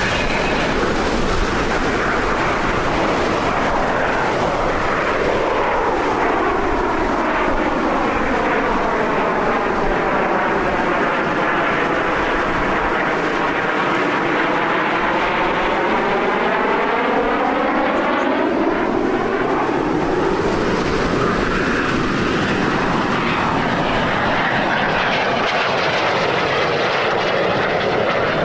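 Jet aircraft flying past at an air display: a steady, loud engine roar whose whooshing sweeps down in pitch and back up as it passes closest, about halfway through.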